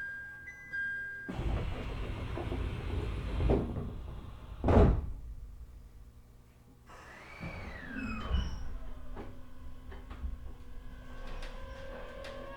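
Electric train doors sliding shut with a hiss of air and a loud thump about five seconds in, aboard a JR East E127 series EMU. Then the Toyo Denki GTO-VVVF inverter starts up with a whine that glides up and down, and near the end several rising whines begin as the train pulls away.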